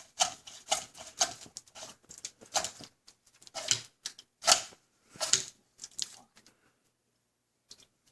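Threaded rod used as a drain snake clattering and scraping inside a drain pipe in quick, irregular strokes. The strokes thin out and stop about six and a half seconds in.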